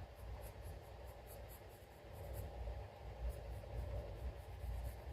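Faint scratchy strokes of a drawing tool across a drawing surface, in two runs of quick short strokes with a pause a little after two seconds in, over a low steady hum.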